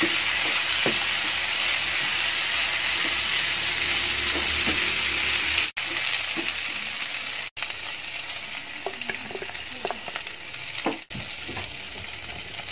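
Chicken 65 sizzling in hot oil and masala in a nonstick frying pan as it is stirred with a slotted spatula, with light scrapes of the spatula on the pan. The sizzle turns quieter about six seconds in and cuts out briefly three times.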